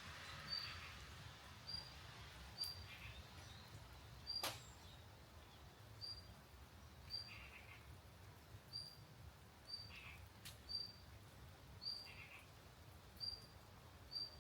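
A bird repeating a short, high chirp about once a second, faint over a low steady rumble, with a few sharp pops scattered through.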